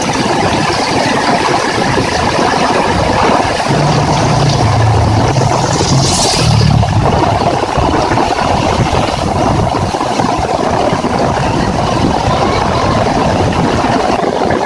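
Heavy rain falling, a steady loud hiss. From about four to seven seconds in, a vehicle's engine hum joins it, with a short burst of hiss near its end.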